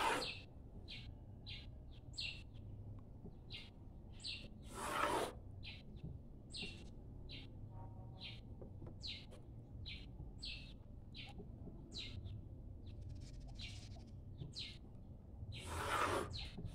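A small bird chirping in short, high calls, one or two a second throughout. Three louder scratchy swishes of a ruler and pencil on drawing paper come at the start, about five seconds in and near the end.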